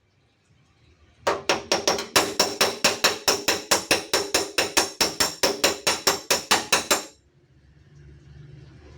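A hammer tapping the dented steel tailgate panel of a Daihatsu Xenia in rapid, even strokes, about five a second with a metallic ring, straightening the dent without breaking the paint. The tapping starts about a second in and stops suddenly near the end.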